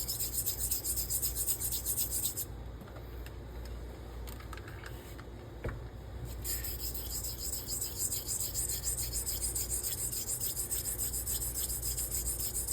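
Straight razor blade stroked with light pressure back and forth across a slurried Pyrenees 1200 grit stone, a steady run of short scraping strokes while setting the bevel. The strokes stop for about four seconds a couple of seconds in, then resume.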